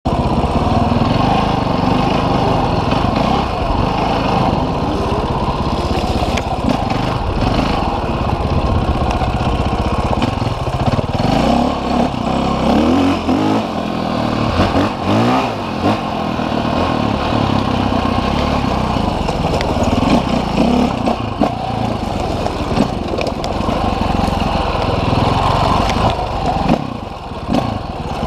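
Off-road motorcycle engine running continuously, its pitch rising and falling as it is revved and eased off, with scattered short knocks.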